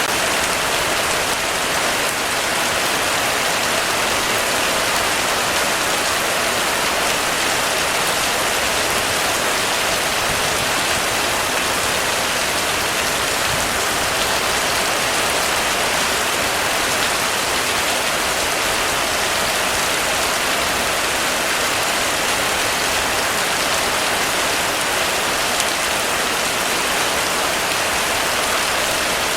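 Heavy rain falling steadily on a metal roof, a dense, even hiss of drops.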